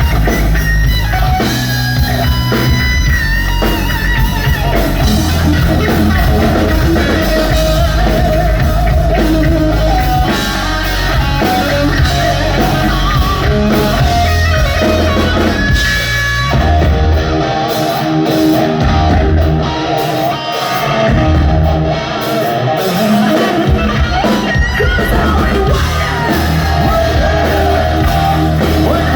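Hard rock band playing live: distorted electric guitar over bass and drum kit. About two-thirds of the way through, the bottom end drops away for a few seconds while the guitar carries on, then the full band comes back in.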